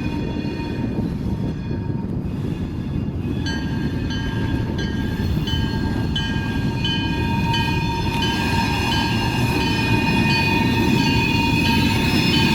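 Freight train moving slowly during switching: a steady low rumble from the locomotive and rolling cars. From about three and a half seconds in, a high ringing joins, several tones with a regular repeating beat, growing louder toward the end.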